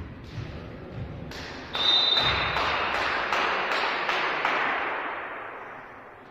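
A volleyball bounced on a hall floor a few times, then a short high whistle blast and a sudden burst of cheering with rhythmic clapping that fades away over the next few seconds.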